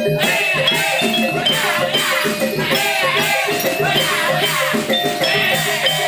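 Javanese gamelan music accompanying a barongan dance: repeated metallic notes over a steady drummed beat, with a rattling, jingling layer.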